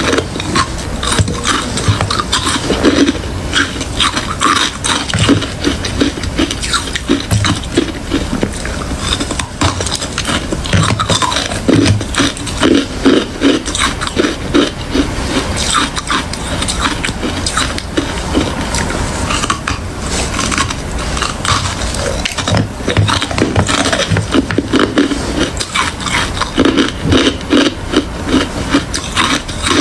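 A person biting and chewing hard ice close to the microphone: continuous loud, irregular crunching and crackling, in quick runs of chewing strokes.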